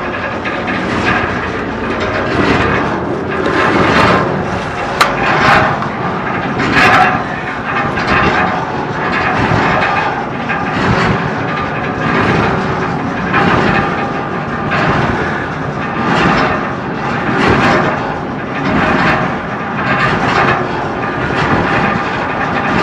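Freight train running: a loud, steady rumble and rattle that swells and fades over and over, with a sharp clank about five seconds in.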